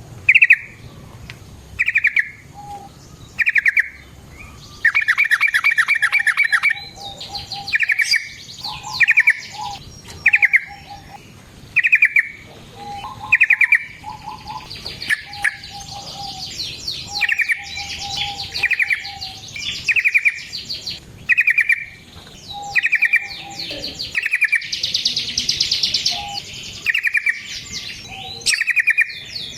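Yellow-vented bulbul (trucukan) calling over and over in short, bright chattering phrases about once a second. A fainter, lower note sits between the phrases, and a longer rapid trill comes in twice, once early and once near the end.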